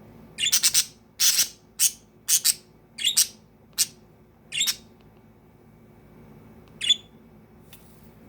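Budgerigars calling: a run of about eight short, sharp chirps over the first five seconds, then one more near the end.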